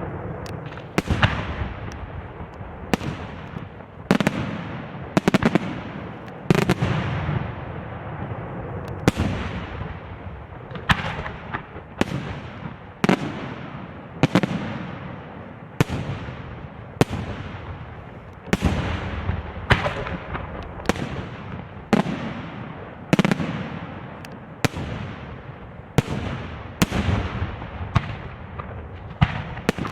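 Fireworks shells bursting in a steady series of sharp bangs, roughly one a second, each fading into a rolling echo, with a continuous rumble between them.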